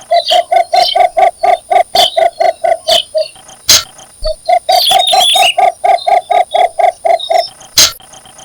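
Cinnamon bittern giving its breeding call: a rapid run of short, hollow, evenly spaced notes, about five a second, breaking off briefly a little past three seconds and then going on. Two sharp clicks fall in the gaps, and a brief higher twitter comes about five seconds in.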